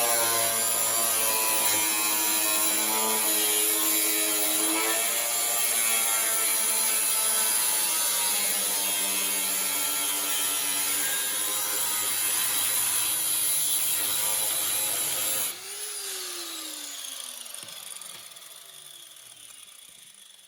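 Power cutting tool running and cutting, its pitch wavering slightly under load, then switched off about fifteen seconds in and winding down with a slowly falling whine.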